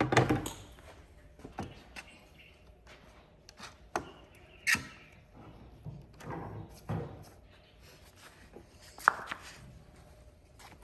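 Scattered knocks, taps and clicks of wooden pieces being handled and worked by hand, with quiet stretches between.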